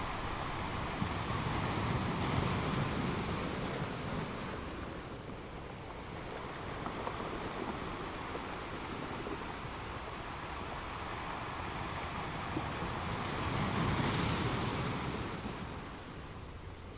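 Caribbean Sea surf washing onto a beach, a steady rush that swells twice, about two seconds in and again near the end, with some wind on the microphone.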